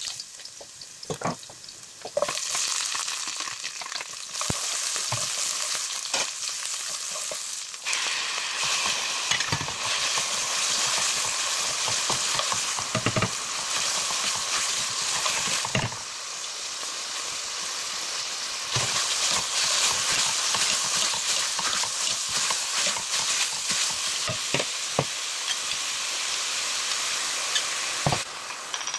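Food frying in hot oil in a granite-coated pan: garlic, then beef, onion and carrot being stir-fried. There is a steady high sizzle, with knocks and scrapes of a wooden spatula stirring against the pan. The loudness of the sizzle shifts up and down in steps.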